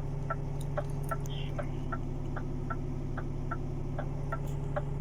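Scania G460 truck's diesel engine running steadily in neutral at revs raised with the cruise control switch, heard inside the cab. A regular light ticking, a little over two ticks a second, runs over it.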